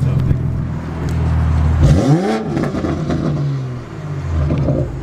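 Car engine idling, then revved once in a quick throttle blip about two seconds in, its pitch rising sharply and falling back before it settles to idle again near the end.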